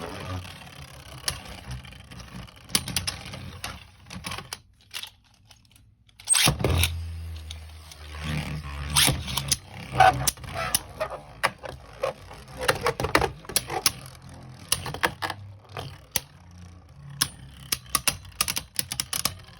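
Beyblade Burst QuadStrike spinning tops clattering in a plastic stadium: rapid irregular clicks and knocks as the tops collide with each other and the walls. A sudden loud start comes about six seconds in, followed by a steady low hum under the clicking.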